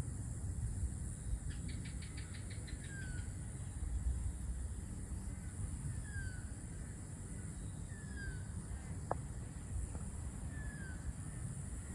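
A bird repeating a short, falling chirp every second or two, over a steady low rumble of wind or distant traffic, with a brief rapid run of clicks about a second and a half in.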